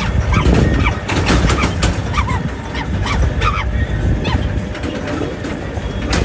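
Tractor engine running steadily under a ride, with rattling knocks and a string of short high calls over it.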